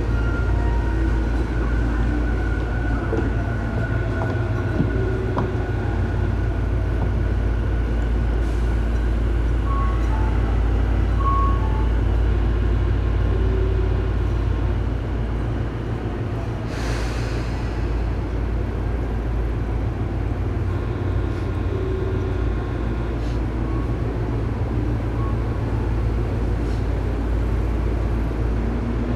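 Inside a Tobu 9000 series electric train car above its armature chopper equipment: a steady low hum with faint whining tones. A short hiss cuts in about seventeen seconds in.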